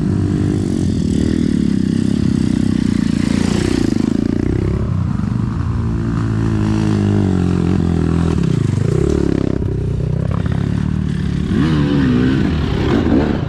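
Dirt bike engine revving up and down, its pitch rising and falling several times as the throttle is worked.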